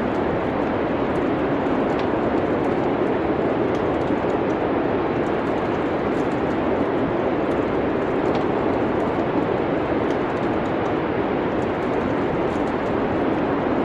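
Steady rushing wind noise of a winter snowstorm ambience, with the faint, scattered crackle of a wood fire.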